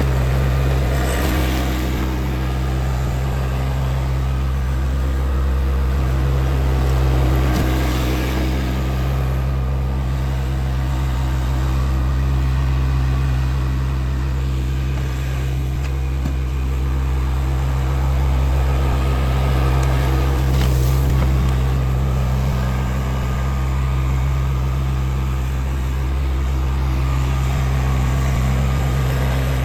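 Tractor engine running steadily under work, a constant low drone with a few brief noises over it near the start, about eight seconds in and around twenty-one seconds.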